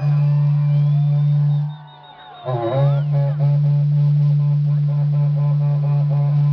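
Berrante (cattle-horn trumpet) blown in a long, low held note. It breaks off briefly for breath about two seconds in, then returns with a bending attack and a pulsing, wavering tone.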